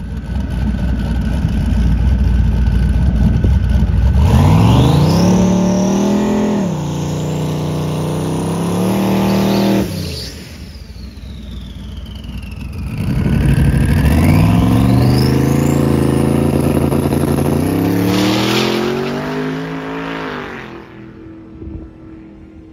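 Twin-turbo LS-powered Mustang doing a burnout. The engine rumbles low, then revs up about four seconds in and holds high until it drops off sharply near ten seconds. It revs up and holds again for several seconds before fading near the end.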